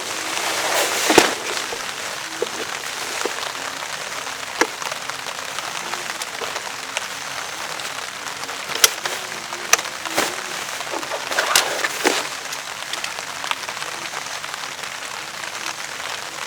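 Steady heavy rain hissing, with scattered sharp ticks of drops striking, bunched most thickly about two-thirds of the way through.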